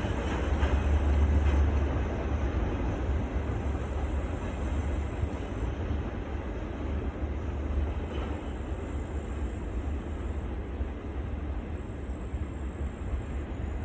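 Heavy freight train running past with a steady low rumble, loudest in the first two seconds and then easing slightly.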